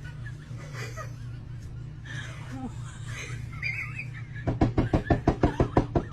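A steady low hum, then about four and a half seconds in a burst of rapid, loud, pitched pulses, about eight a second, that fits a person laughing hard.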